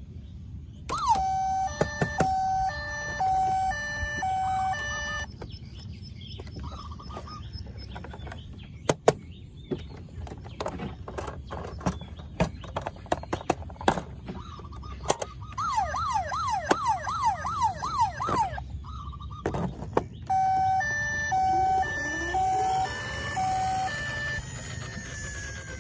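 Battery-powered toy vehicle sirens: an electronic two-tone hi-lo siren sounds twice, and a fast rising yelp siren repeats about three times a second in the middle. Sharp clicks and knocks of plastic toys are heard between them.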